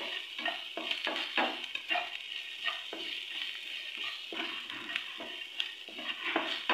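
Chopped onion, green chillies and curry leaves sizzling in oil in a non-stick pan while a spatula stirs and scrapes them, about two strokes a second, as they are sautéed until soft.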